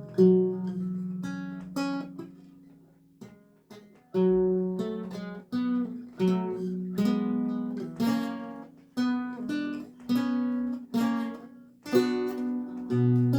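Solo lute music: single plucked notes and chords, each ringing and dying away, with a short pause about three seconds in before the playing resumes at an unhurried pace.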